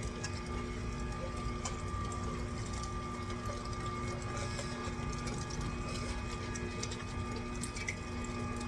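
Electric meat grinder running steadily as it grinds chicken: an even motor hum over a low rumble, with scattered faint ticks.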